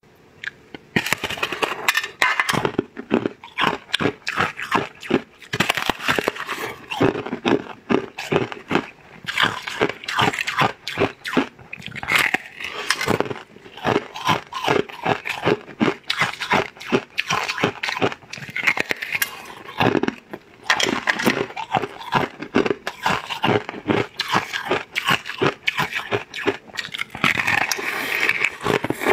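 Crunching and chewing of a brittle, glass-like golden edible sheet: many sharp crackling bites and snaps, one after another with short pauses.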